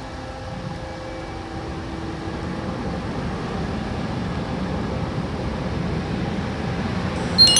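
Steady low engine rumble, growing slowly louder, with a short high ringing sound near the end.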